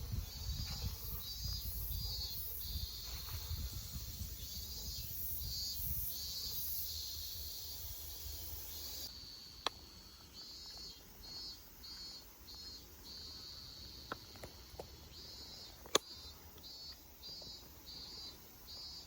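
Insects singing in repeated pulsing bursts of a high buzz, with wind rumbling on the microphone for about the first half. A few sharp clicks come in the second half, one loud one near the end.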